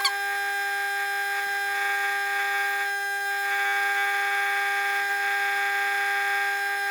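Steady high-pitched whine of a hot-air plastic welder's blower running as the rod and plastic are heated. The whine starts and stops abruptly.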